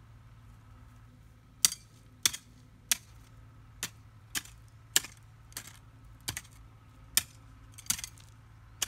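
A run of sharp, irregular clicks or taps, roughly one to two a second, starting about one and a half seconds in, over a faint low steady hum.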